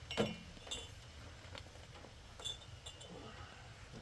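A handful of light, separate knocks and clinks, the sharpest just after the start, a few of them with a short high ring like glass or crockery.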